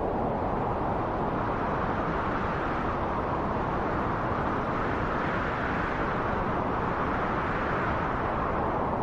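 Strong wind rushing over a microphone: a steady, even roar with no pitch, heaviest in the low range.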